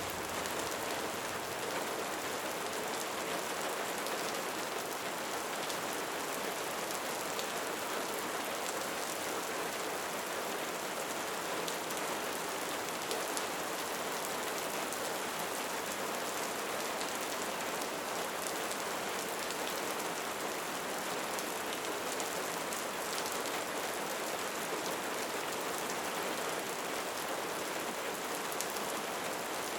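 Steady rainfall, an even hiss of rain with scattered drop ticks.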